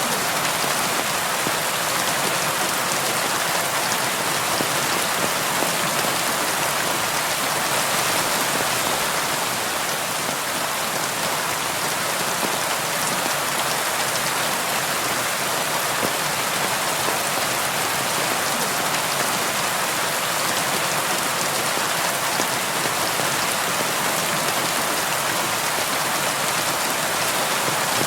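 Steady rain pattering on window glass, a dense even hiss with no thunder.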